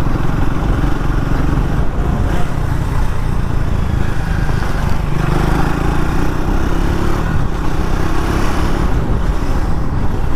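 Triumph Speed 400's single-cylinder engine pulling in sixth gear at around 50 km/h, the lowest speed at which it runs without lugging, with steady wind and road noise.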